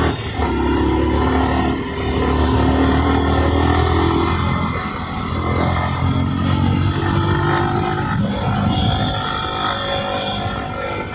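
Yamaha R15M's 155 cc single-cylinder engine running while the bike is ridden at moderate road speed, its note rising and falling gently with the throttle.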